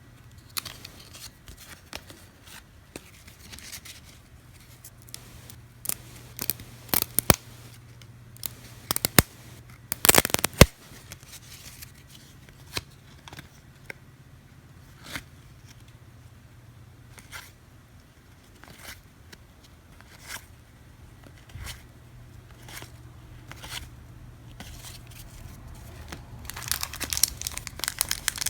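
1999 Skybox Thunder card packs being torn open and their cards handled: wrapper tearing and crinkling with scattered short clicks and rustles. There is a louder burst of tearing about ten seconds in and denser crinkling near the end.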